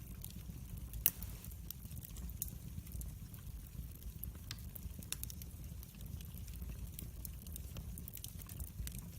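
Wood fire in a fireplace crackling: scattered sharp pops and snaps over a steady low rumble of the flames, with one louder pop about a second in.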